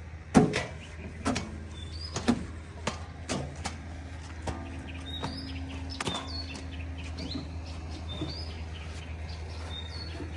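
A low, steady engine hum with a series of sharp knocks and clanks over the first half, the loudest about half a second in. Short bird chirps come in from about five seconds on.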